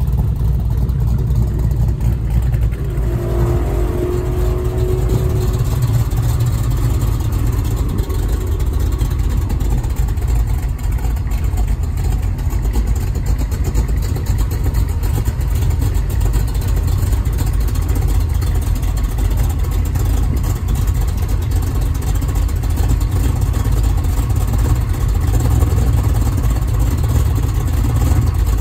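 A car engine running with a steady low rumble and no clear revving or launch.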